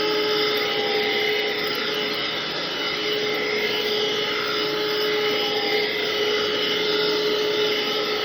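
Craftsman cordless stick vacuum running steadily on its medium speed setting: a constant motor whine over a rush of air.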